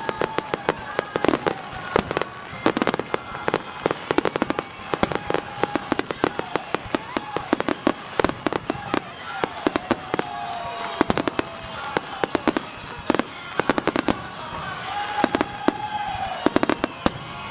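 Finale barrage of aerial fireworks: shells bursting in rapid, continuous succession, with a constant crackle of sharp bangs.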